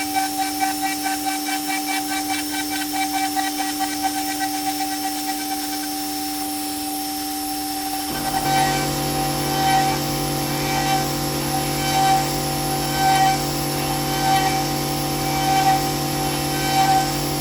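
CNC router spindle milling an aluminium mold with a small ball-nose bit: a steady high whine. About halfway through the sound changes and a lower tone joins it, and the level then swells and falls about once a second as the tool passes.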